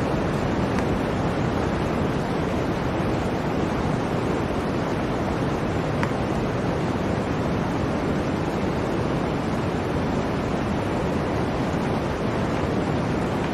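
Blizzard wind: a steady, even rush of wind noise with no marked gusts.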